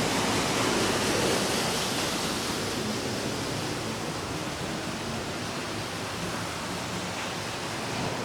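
Steady rushing of flowing water, a little louder in the first two or three seconds and then even.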